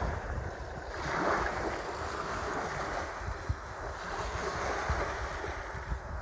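Sea waves washing in, with wind buffeting the microphone. A wave surges about a second in.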